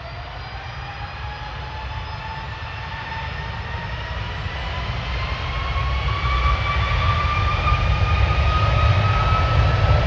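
Jet airliner engines spooling up: a whine that rises steadily in pitch over a growing low rumble, getting louder throughout, as the engines build thrust.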